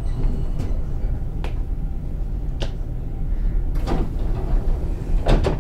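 A JR West 223 series 2000 electric train running, heard from inside the car: a steady low rumble from the wheels on the track, with sharp clicks and knocks at irregular intervals, a double knock near the end.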